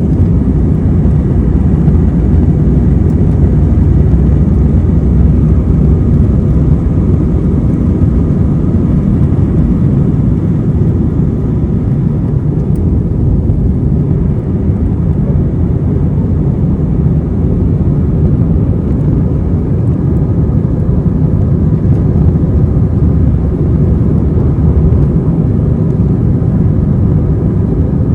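Airbus A321 jet engines and airflow heard from inside the passenger cabin: a loud, steady low rumble, with a few faint steady tones above it.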